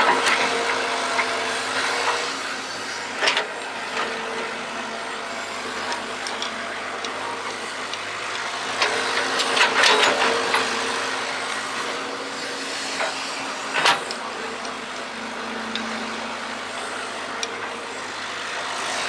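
Excavator digging: a steady machine hum, with bursts of scraping and clattering as the bucket works the ground, about three seconds in, for a longer spell around ten seconds, and again around fourteen seconds.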